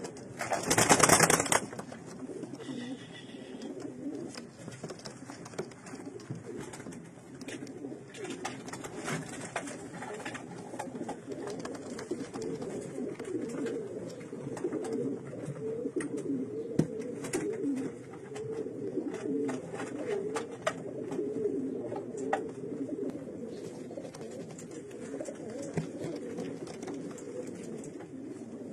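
Racing pigeons cooing, many calls overlapping into a continuous low warble in a small room. A short, loud burst of noise comes about a second in.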